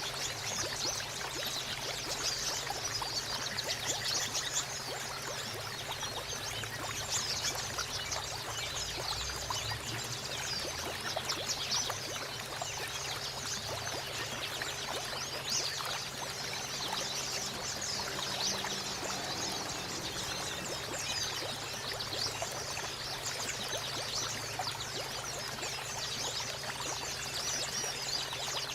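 Water trickling and pouring steadily, with a dense patter of quick, high-pitched splashes.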